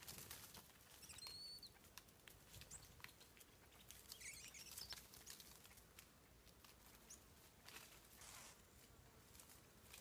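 Faint rustling and pattering in dry leaf litter as small ground-foraging birds hop about, with a few short, high bird calls, one about a second in.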